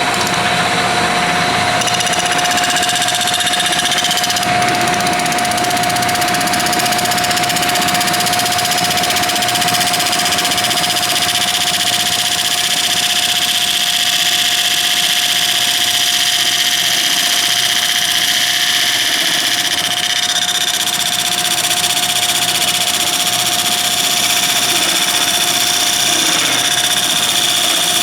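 Wood lathe running steadily at speed with a bowl blank chucked on it: a constant motor whine over a continuous rushing noise.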